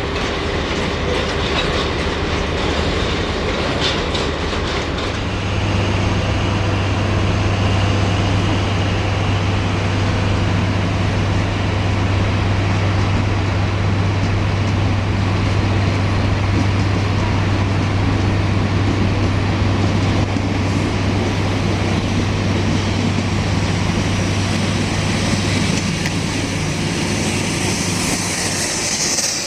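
A train running on the rails, its wheels clicking over the rail joints. A steady low drone comes in about five seconds in and holds, and faint high-pitched tones rise near the end.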